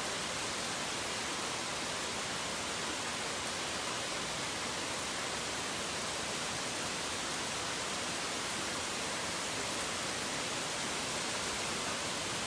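Steady heavy rain, an even dense hiss with no single drops, thunder or birds standing out.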